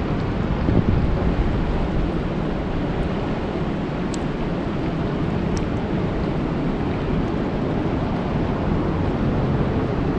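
Steady rain falling on a lake, a dense even hiss that is heaviest in the low range, with a couple of faint ticks about four and five and a half seconds in.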